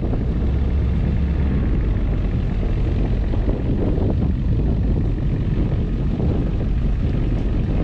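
Pickup truck driving along a snowy road, a steady low rumble of engine and road noise.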